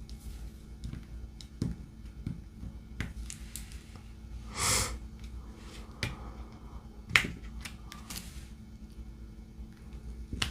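Diamond painting pen placing resin drills on the canvas: scattered light clicks and taps, with a short louder rustle about halfway and a sharper click about seven seconds in.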